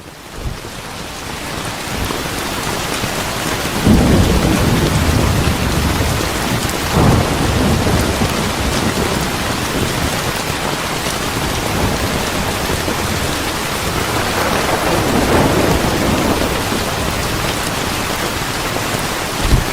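Steady heavy rain with rolls of thunder, deep rumbles swelling about four, seven and fifteen seconds in. The rain rises in over the first couple of seconds.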